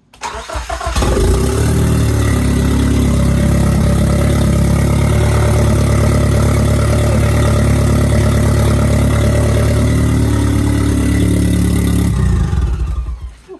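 1987 Nissan 200SX S12 Silvia engine cranking briefly and catching about a second in, then idling steadily until it is switched off near the end and runs down. The owner hears a leak somewhere, and the exhaust needs fixing.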